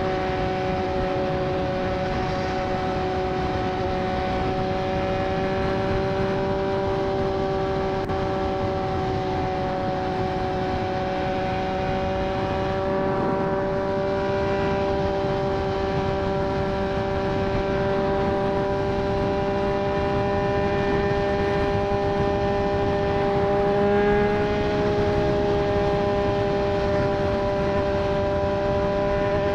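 Triumph Street Triple 765 inline-three with a Racefit Growler full exhaust system, running at steady, nearly constant revs while cruising. Its pitch creeps slightly higher over the stretch, over a constant rush of wind noise.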